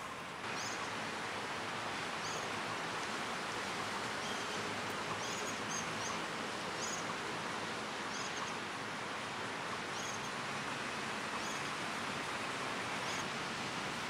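Steady outdoor ambience, an even hiss, with short high chirps from small birds every second or so.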